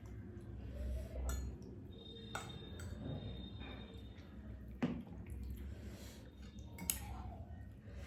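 Eating utensils clinking against a dish, with a few separate clinks a couple of seconds apart.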